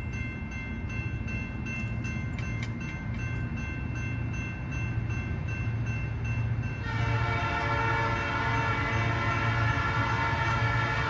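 Diesel locomotive air horn sounding over the low rumble of the train, the horn turning louder and fuller about seven seconds in.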